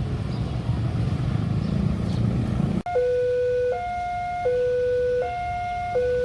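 A low rumble that cuts off abruptly just under three seconds in. It is followed by a railway level-crossing warning alarm: an electronic two-tone signal alternating between a lower and a higher tone about every three-quarters of a second.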